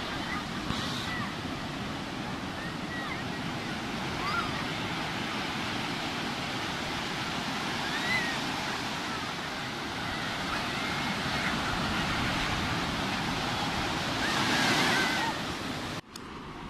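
Sea surf washing on the shore, a steady rush that swells louder shortly before the end, then cuts off abruptly.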